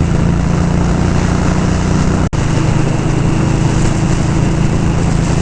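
Indian Scout motorcycle's V-twin engine running steadily while riding at a constant speed, with wind rushing over the microphone. The sound drops out for an instant a little over two seconds in.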